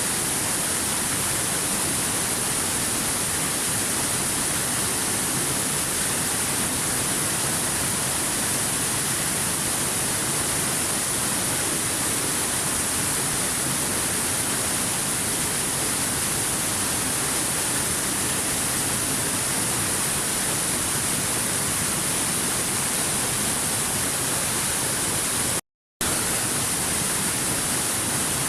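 Waterfall: water falling in a steady, unbroken rush, which cuts out to silence for a split second near the end.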